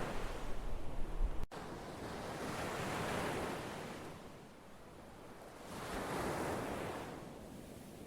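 Ocean surf: waves washing in and drawing back, two swells rising and falling a few seconds apart. Low wind rumble on the microphone in the first second and a half, ending at a brief drop-out where the recording cuts.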